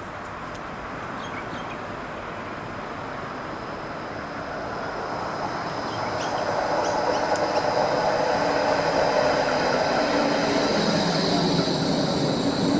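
Electric light-rail tram running on rails, growing louder from about halfway through, with a steady high whine over the rumble.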